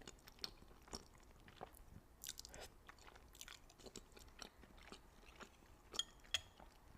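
Close-miked chewing of food: soft, irregular wet mouth clicks and smacks, with a sharper click about six seconds in.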